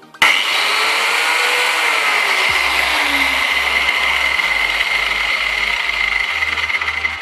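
Angle grinder switched on with a sudden start and running steadily: a strong high whine over a loud hiss of the disc cutting, fading away at the very end.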